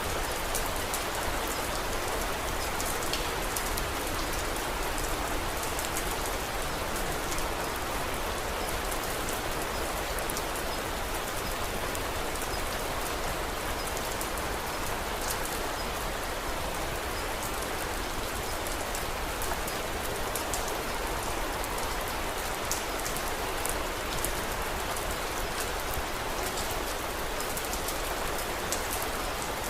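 Steady rain falling, with many small sharp ticks scattered throughout.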